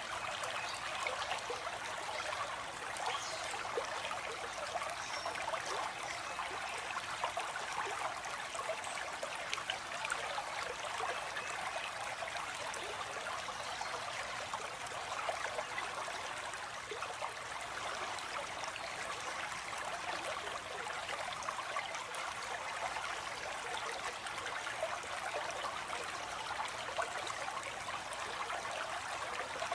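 Stream water flowing steadily over rocks, a constant rushing and trickling with no break.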